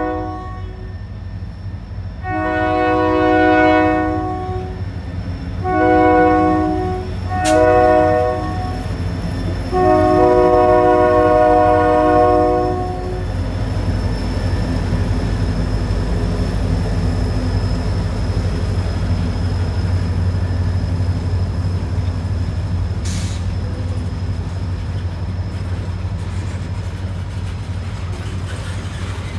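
A diesel freight locomotive blows its air horn for a grade crossing: the tail of one blast, a long blast, two short ones and a final long blast that ends about 13 seconds in. After that the locomotive and a string of covered hopper cars roll past in a steady low rumble.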